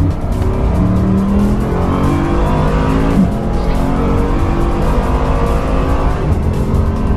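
Bugatti Chiron Super Sport's quad-turbo W16 engine accelerating hard, its pitch climbing with a break about three seconds in, as at a gear change.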